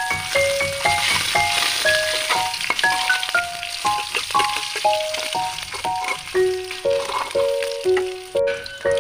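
Chicken skin sizzling as it fries in a little oil in a wok, stirred with a metal spoon; the sizzle is strongest in the first half. A simple melody of short notes plays over it as background music.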